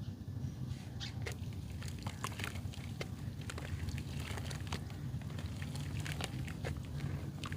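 Clumps of mud being crumbled, giving many irregular crackling and pattering clicks over a low steady hum.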